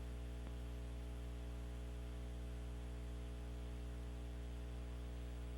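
Steady electrical mains hum with a faint buzz of overtones and light hiss on the audio line, unchanging throughout.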